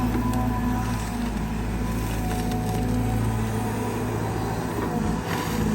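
The Cat C4.4 four-cylinder turbo diesel of a Caterpillar 320GX excavator running steadily under digging load, with the steady whine of its hydraulic pump. A few faint knocks and scrapes come from the bucket working hard laterite soil.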